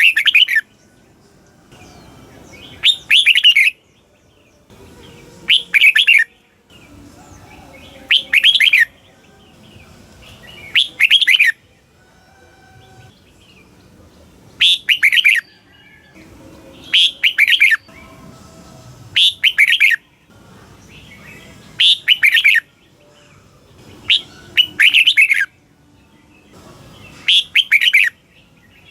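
Red-whiskered bulbul singing a short phrase of several quick, falling, warbled notes, repeated about every two to three seconds, around ten times.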